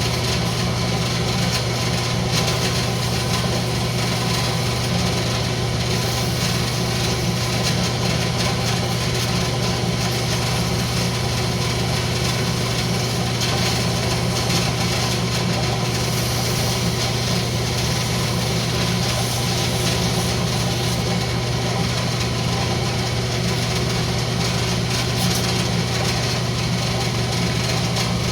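Wood lathe running at a steady speed, its motor giving a constant hum over an even hiss.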